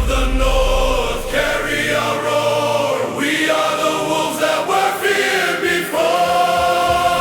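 Epic Nordic-style music in which a choir sings long held notes in phrases. The deep drums and bass drop away shortly after the start, leaving the choir mostly alone until the low end returns at the very end.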